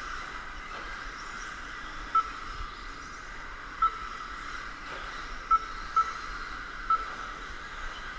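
Electric RC stadium trucks racing, heard as a steady high-pitched hiss and whine. Over it come five short, same-pitched electronic beeps at uneven intervals, typical of a race timing system logging trucks as they cross the line.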